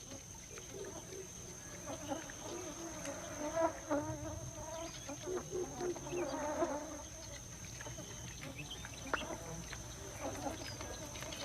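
An insect trapped inside a pitcher plant's tubular leaf buzzing in fits and starts as it tries to get out, its pitch wavering. A steady high-pitched whine runs underneath.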